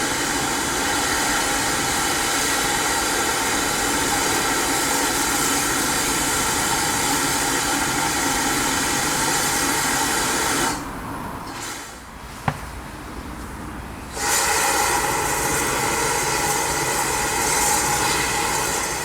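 Steam escaping from a GWR steam tank locomotive: a loud, steady hiss with a ringing tone in it. It cuts off sharply about eleven seconds in and starts again about three seconds later. A single sharp clank comes in the gap.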